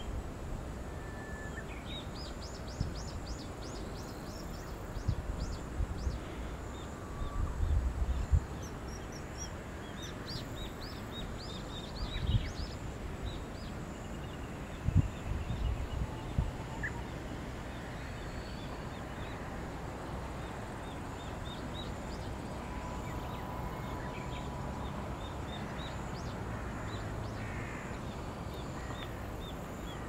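Birds calling in several quick series of high chirps over a steady outdoor hiss, with a few low thumps and rumbles on the microphone.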